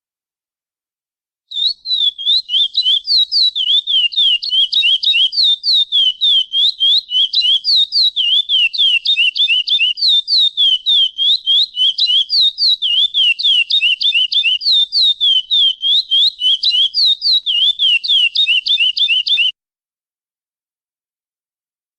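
Lesser seed-finch (curió) singing a long phrase of the classic praia song: a fast, steady run of clear, down-slurred whistled notes, about four to five a second. It starts about a second and a half in and cuts off abruptly near the end.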